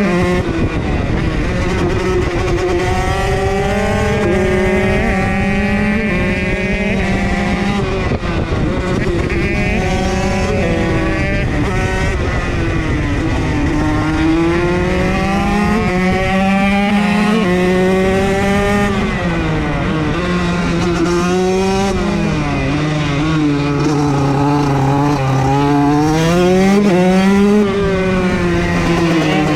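KTM SX motocross bike's engine being ridden hard, its pitch repeatedly climbing under throttle and dropping back with gear changes and throttle-off.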